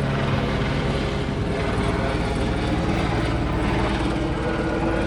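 Police helicopter flying low overhead, its rotor beating steadily.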